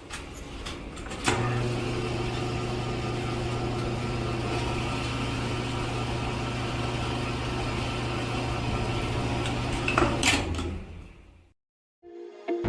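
A small electric motor running with a steady hum, switched on with a click about a second in and off with a click after about nine seconds.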